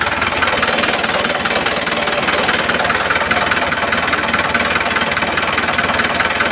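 A miniature model tractor's small engine running steadily with a fast, even knocking rhythm.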